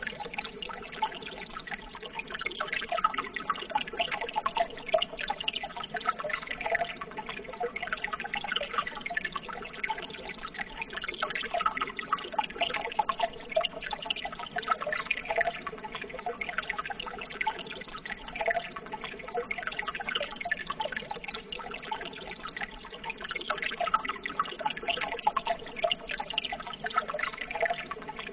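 Running water, a steady continuous babble and trickle made of many small splashes and drips.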